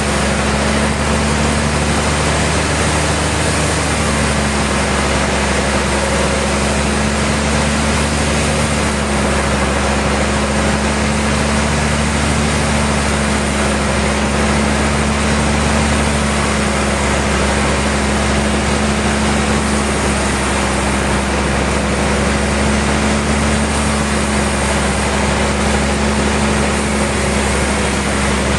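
Sawmill machinery running steadily: a loud, constant mechanical hum with a steady low tone and a wide noisy hiss over it.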